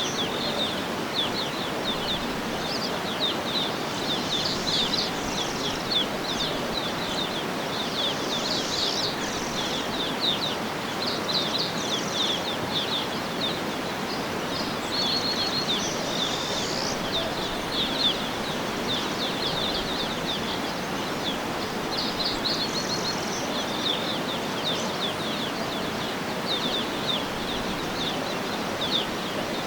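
Birds chirping: many short, quick chirps and trills in clusters throughout, over a steady background hiss of outdoor ambience.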